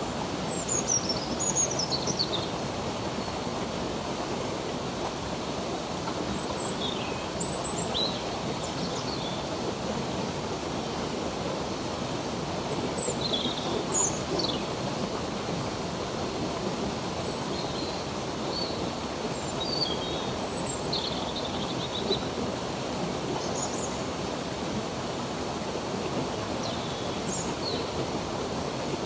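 Flowing stream water rushing steadily, with birds chirping here and there above it in short, falling high calls.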